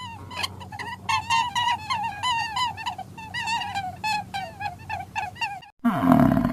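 An animal giving a rapid run of short, repeated chirping calls, about four to five a second, each dipping in pitch. Near the end it cuts off and a lower, drawn-out call begins.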